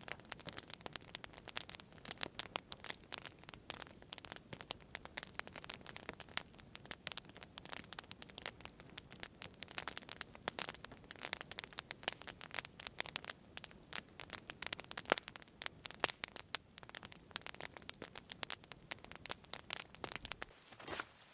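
Campfire crackling: a dense, irregular run of sharp snaps and pops, with a few louder pops about two-thirds of the way through.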